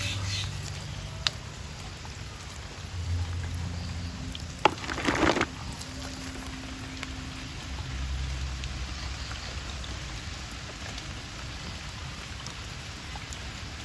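Light rain pattering steadily, with a couple of sharp clicks and a brief louder noisy burst about five seconds in.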